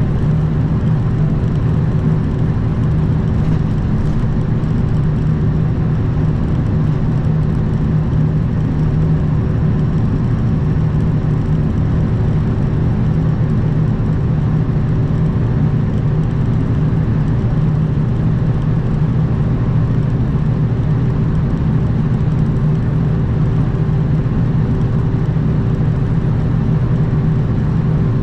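Kenworth W900 semi truck's diesel engine running steadily on the road, a low, even drone with a constant hum over it.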